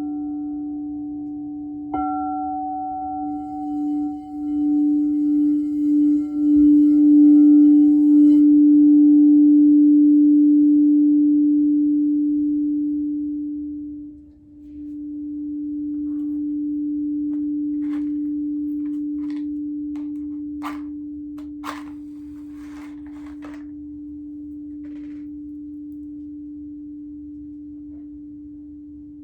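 Singing bowl struck about two seconds in, then held ringing with one deep steady tone that swells and wavers, dips briefly about halfway through, swells again and slowly fades. A few faint clicks sound over the ringing in the second half.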